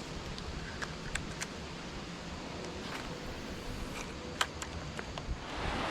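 Scattered light ticks over a faint steady outdoor hiss, then a louder even hiss swells up near the end as a rain shower begins.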